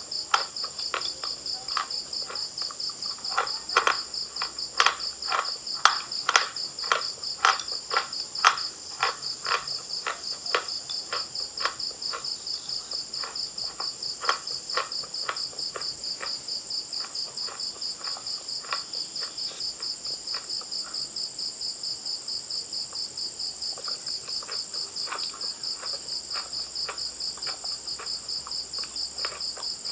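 Close-miked crunching bites of eating chalk: a run of sharp crunches through the first half, the loudest sounds, with a few more near the end. Behind them crickets chirp steadily in a fast, even pulse.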